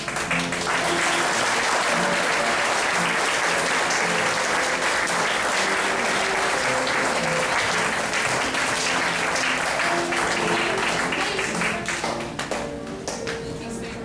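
Audience applauding over music, the clapping dense for about twelve seconds and thinning out near the end while the music carries on.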